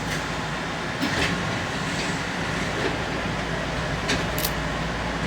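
Keihan commuter train heard from inside the front car: a steady rumble and hum with a few short hisses, one about a second in and two near the end.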